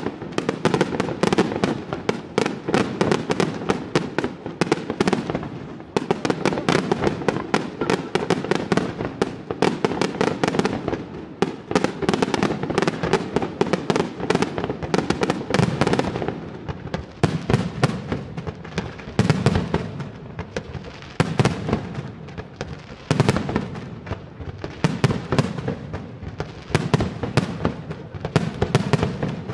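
Professional aerial fireworks display: a dense, continuous run of shell bursts and crackling, many sharp bangs every second with hardly a gap.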